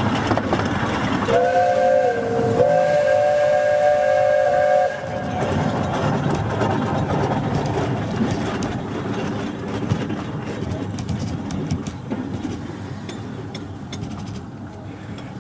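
A narrow-gauge train's whistle blows a chord of several notes for about three and a half seconds, starting about a second in, with a brief dip in pitch partway through. After that comes the steady running noise of the carriages on the track, with small knocks.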